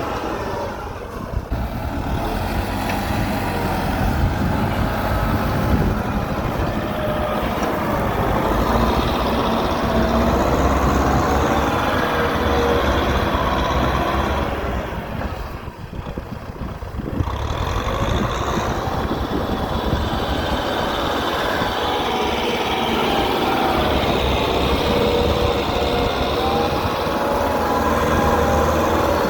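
Tractor engine running steadily while working a muddy rice field, with a low rumble and a wavering drone; it drops off briefly about halfway through, then picks up again.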